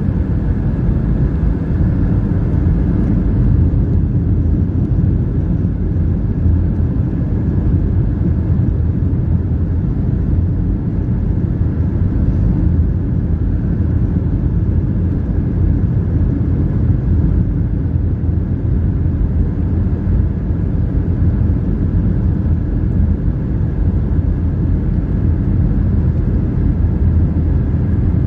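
Steady low rumble inside the cabin of a Boeing 757-300 airliner.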